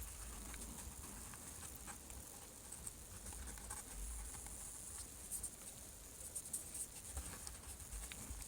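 Faint rubbing and light scratching with scattered small clicks as leftover adhesive is cleaned off a Samsung Galaxy S4 with alcohol.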